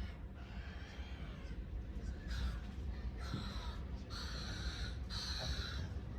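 Seagulls calling: a run of several harsh squawks from about two seconds in, over a steady low rumble.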